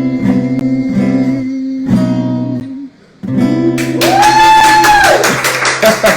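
Acoustic guitar strumming the closing chords of a song. The playing breaks off briefly about halfway through, then comes a final strummed chord under a long sung note.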